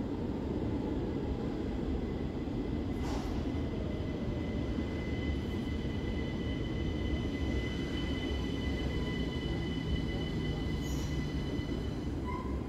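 Electric train at the platform: a steady low rumble with a thin, high, steady whine over it.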